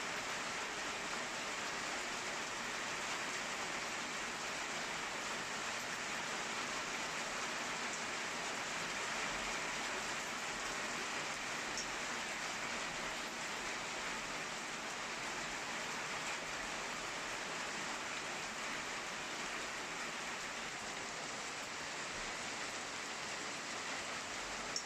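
Steady rain falling during a thunderstorm, an even hiss that holds level throughout, with no thunder heard.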